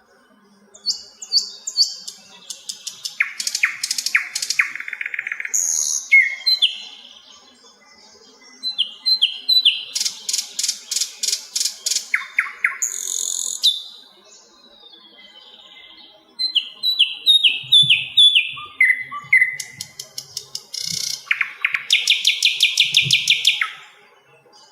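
A sikatan londo flycatcher singing: fast strings of sharp chirps, falling runs of whistled notes and buzzy trills, in phrases of a few seconds with short pauses between them.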